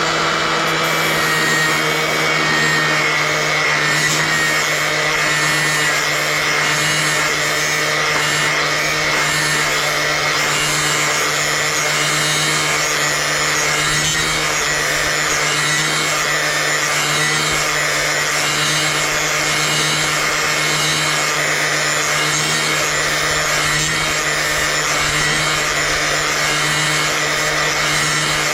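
Angle grinder with a flap disc running steadily at full speed, its motor hum and whine mixed with a gritty hiss as the disc is worked lightly along a garden shear blade to sharpen the edge.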